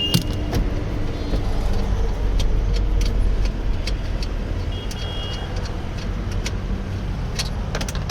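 Maruti Suzuki Alto 800's small three-cylinder petrol engine idling steadily, with scattered light clicks. Two short high beeps sound, one at the start and one about five seconds in.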